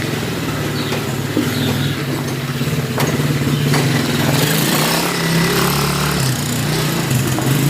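Quad bike (ATV) engine running steadily, its pitch rising slightly about halfway through, with a sharp click about three seconds in.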